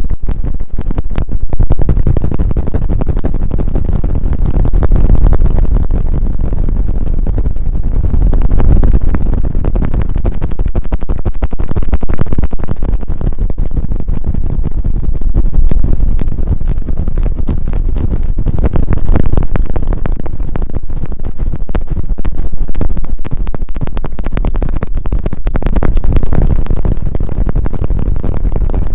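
ASMR trigger tool brushed close against the microphone: a dense, scratchy rubbing with a heavy low rumble and fine crackles, swelling in slow passes about every three and a half seconds.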